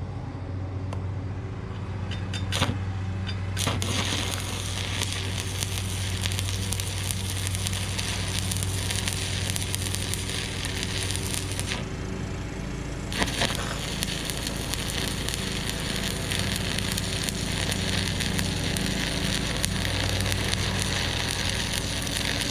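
Electric arc welding: two welds, the arc crackling steadily for about eight seconds, stopping briefly about halfway, then crackling again for the rest, over the welding machine's steady low hum. A couple of sharp ticks come just before the first weld, as the arc is struck.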